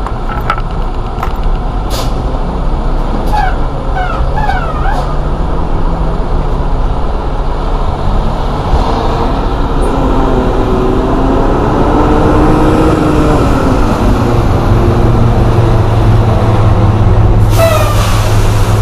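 Semi-truck running steadily, its engine note wavering in pitch in the middle, with a short burst of hiss near the end.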